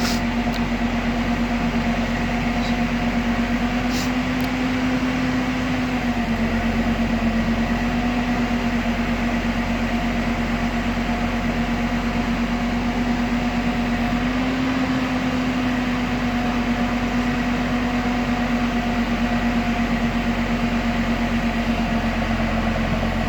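Diesel engine of heavy machinery running at a steady speed, a constant hum that drops slightly in pitch about six seconds in and rises again about fourteen seconds in.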